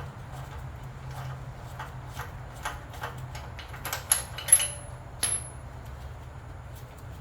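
Metal hand tools clicking and clinking while a spark plug is removed from a small engine, with three sharp ringing metallic clinks a little past halfway. A steady low hum runs underneath.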